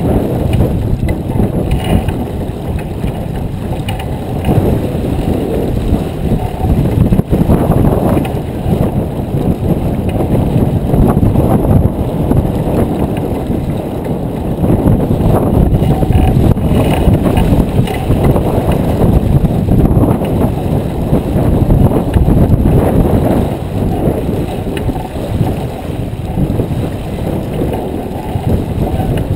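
Wind buffeting the microphone aboard a J24 sailboat under sail: a loud, low rushing that rises and falls in gusts.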